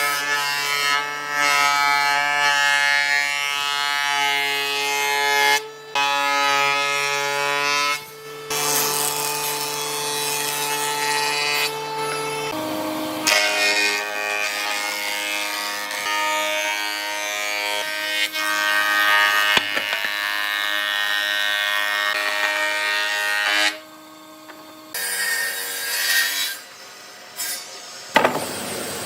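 Power tool cutting wood: a steady motor whine with a rasping cut. It changes pitch about twelve seconds in and stops briefly a few times.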